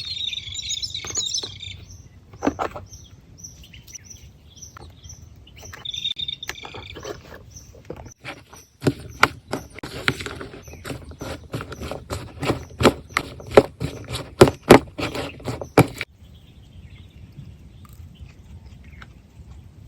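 Birds chirping outdoors, twice in short bursts, then a fast, irregular run of loud, sharp knocks for about seven seconds that stops abruptly.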